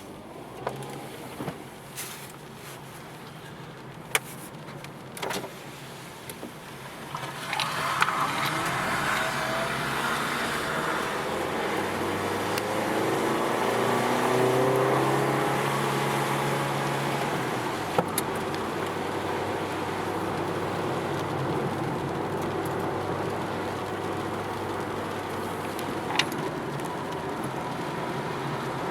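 Mazda Miata's four-cylinder engine, quiet at first with a few sharp clicks. About seven seconds in it revs up and runs hard, its pitch rising and falling, then holds steadier over a constant wash of tyre and road noise on a wet track.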